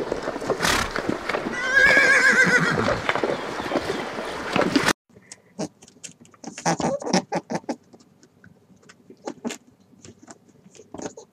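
Horses whinnying, with a long wavering neigh about two seconds in. The sound cuts off abruptly about five seconds in, and a run of quiet, irregular short clicks and taps follows.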